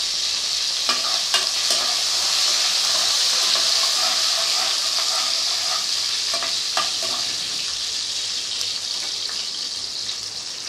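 Chopped ginger, garlic and green chilli sizzling in hot oil in a kadai, a steady frying hiss. A few short knocks come as they are stirred.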